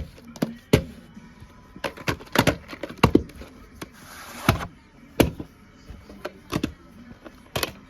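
Irregular plastic clicks and thunks of a VHS cassette and its case being handled, over background music.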